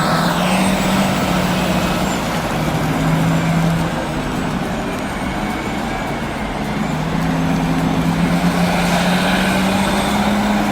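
Heavy diesel engine of earthmoving machinery running under load, its low hum stepping up and down in pitch as the revs change, over a steady mechanical din.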